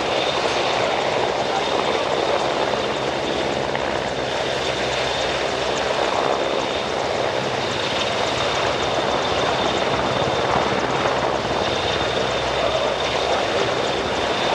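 CH-149 Cormorant search-and-rescue helicopter running steadily, the rotor and its three General Electric turboshaft engines giving a constant loud noise with a steady high turbine whine over it.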